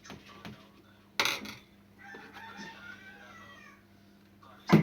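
A rooster crowing in the background for about two seconds in the middle, with two sharp knocks, one about a second in and one near the end.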